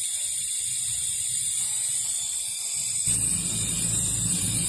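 Steady hiss of air through the refrigerator's sealed-system fittings while its compressor runs, pumping air into the system to pressure-test it for an internal leak. A low hum joins about three seconds in.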